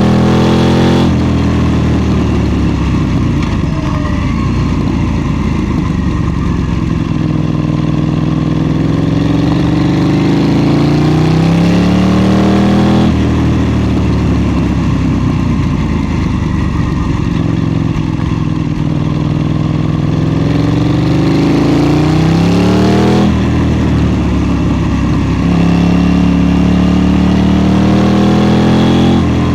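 KTM 790 Duke's parallel-twin engine under way on the road, its pitch falling and climbing again in long sweeps as the throttle is rolled off and opened. The pitch breaks off suddenly about three times, near the start, about halfway and about three-quarters of the way through.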